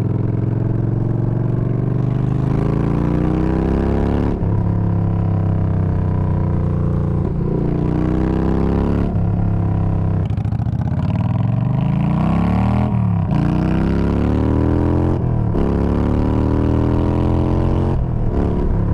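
Yamaha Bolt's V-twin running through a Bassani radial sweeper exhaust with the baffles removed. It pulls away and accelerates, the pitch climbing, then dropping at each of several gear changes. It is very loud and deep.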